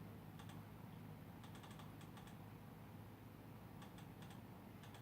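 Faint computer keyboard typing: a few scattered keystrokes and a quick cluster of them, over a steady low hum.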